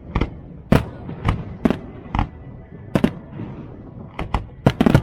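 Fireworks display: a run of about a dozen sharp, loud bangs from bursting shells at irregular intervals, coming faster in a cluster near the end.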